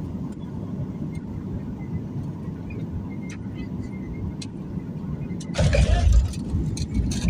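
Steady low rumble of an airliner's cabin during landing, with faint clicks and a louder rushing burst about five and a half seconds in.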